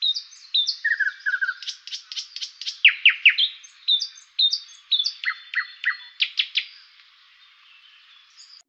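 Songbirds chirping and calling: a busy run of short whistled notes, trills and quick downward-sweeping calls that thins out about seven seconds in and then cuts off.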